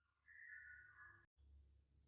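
Near silence: a pause in the recorded bird song, with only a very faint thin note for about a second near the start.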